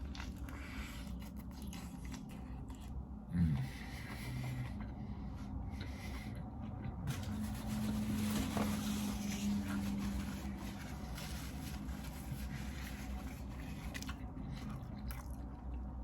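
A man biting into a stacked burger and chewing it, soft mouth and food sounds over a steady low hum, with a brief louder knock about three seconds in.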